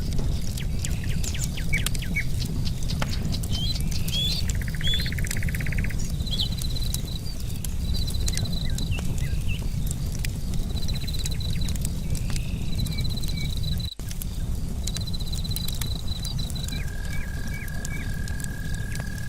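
Campfire crackling with many sharp pops and clicks over a steady low rumble, while birds chirp. A buzzy trill comes about five seconds in, then a series of short high trills, and near the end a long, even, high-pitched trill sets in.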